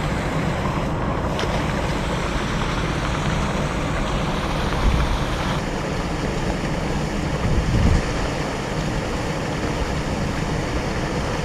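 Steady heavy rain with wind rumbling on the microphone.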